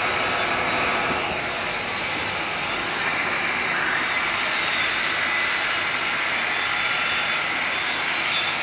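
A drilling machine running steadily, its noise growing brighter and harsher about a second in.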